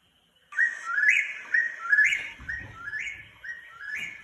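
Recorded eastern whip-poor-will song played back: the whistled 'whip-poor-will' phrase repeated over and over, about twice a second, each ending in a rising note. It starts after a short silence and grows fainter.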